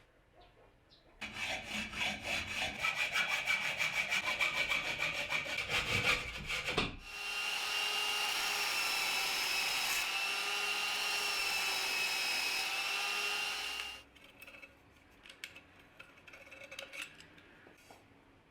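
Woodworking on a piece of wood: several seconds of fast, even rubbing or sawing strokes, then a power tool running steadily with a slightly wavering whine for about seven seconds before it cuts off. A few small knocks and clicks of handling follow.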